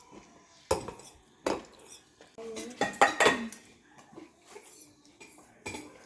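Dishes and cutlery clinking and knocking together in a kitchen: a few separate clinks, then a busier clatter about three seconds in.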